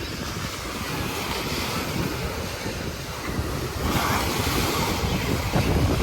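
Ocean surf washing onto the beach, with wind buffeting the microphone in low gusts that grow louder about four seconds in.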